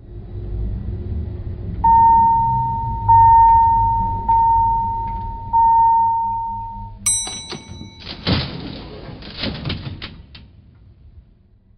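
Electronic sound effects: four long, steady beeps over a low rumble, then a bright ping about seven seconds in, followed by a noisy crash that fades out.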